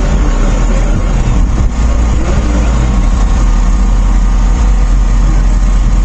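A motor vehicle's engine running loudly and steadily with a heavy low rumble.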